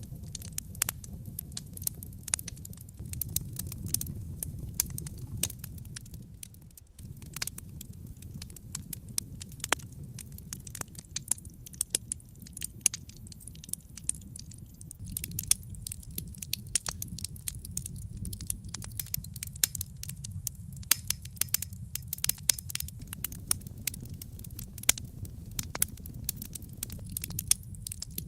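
Wood fire crackling in a fireplace: many sharp pops and snaps over a low steady rumble of flame, the pops coming thicker in the second half, with a brief lull about seven seconds in.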